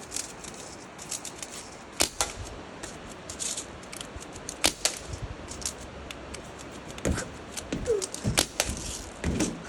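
Single gunshots fired at pop cans, heard as sharp snaps spaced irregularly, about six louder ones with fainter ticks between.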